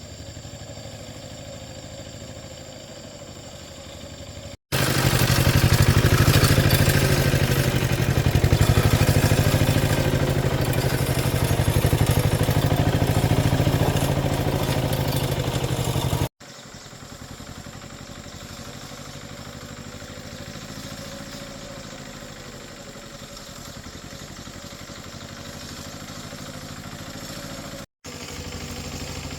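A small engine running steadily, in three edited stretches; from about five to sixteen seconds in it is much louder and closer, with a strong low throb.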